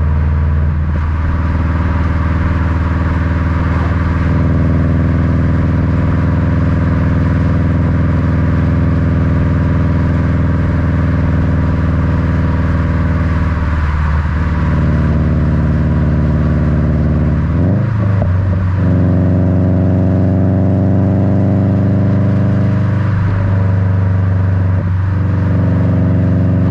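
Subaru WRX's turbocharged EJ255 flat-four rumbling through an Invidia N1 cat-back exhaust, heard close to the tailpipes from a bumper-mounted camera. It runs steadily under way, and its note changes pitch several times as the revs change.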